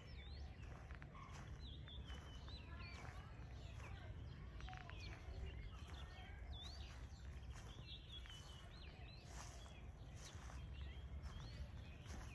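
Several birds calling and singing, with many short whistled notes, chirps and quick trills, over a faint steady low rumble.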